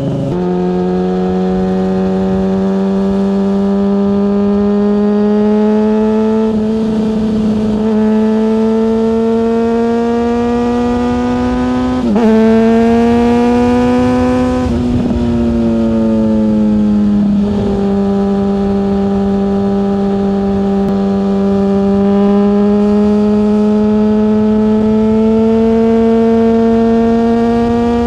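Yamaha FZ6 Fazer's 600cc inline-four engine pulling steadily while riding, its note climbing slowly, with breaks and shifts in pitch about twelve seconds in and again a few seconds later, like gear changes. Wind rush runs underneath.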